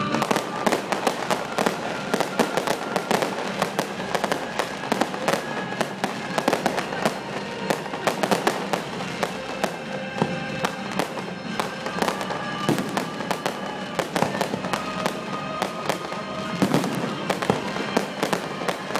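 Fireworks going off in quick succession, a dense run of sharp bangs and crackles, over music playing along with the display.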